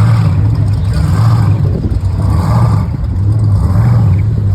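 Engine and exhaust of a hot rod or custom car or truck, running loud and low as it drives out, swelling and easing about once a second as the throttle is worked.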